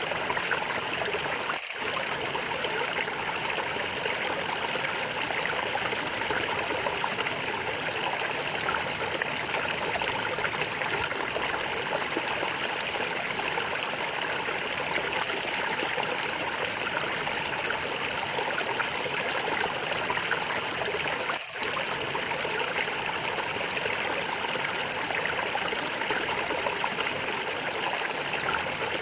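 Running water in a small stream, gurgling and trickling steadily, with two very short dips in level, about 2 seconds in and again near 21 seconds.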